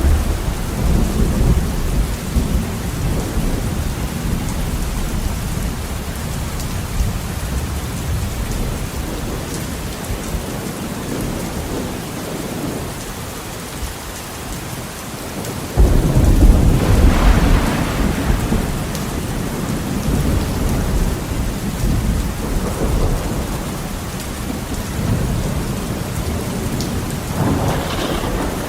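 Heavy rain pattering steadily against a window, with thunder rumbling throughout: a long rolling rumble at the start, a sudden loud crack of thunder about halfway through that rolls on for several seconds, and another rumble near the end.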